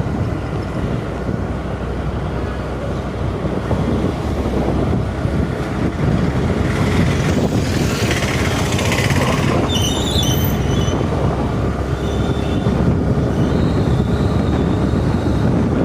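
Wind rushing over the microphone with road and traffic noise from riding on a moving scooter, a steady rumble throughout. A brief high-pitched sound about ten seconds in.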